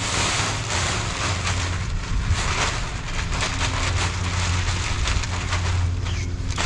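Rake scraping and dragging through loose cypress mulch, a continuous irregular rustling and crackling of wood chips, over a steady low rumble.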